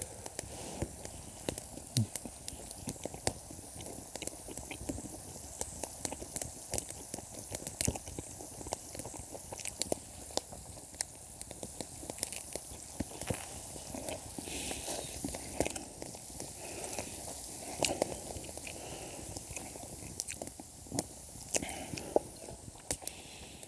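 Wood campfire crackling, with many sharp irregular pops and snaps over a steady soft hiss.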